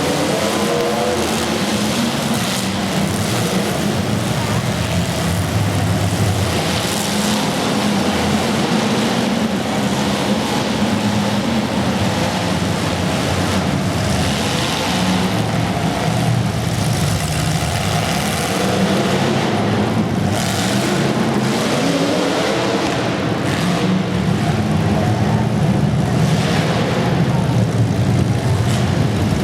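Motor-vehicle engines running steadily, their pitch repeatedly rising as they rev up.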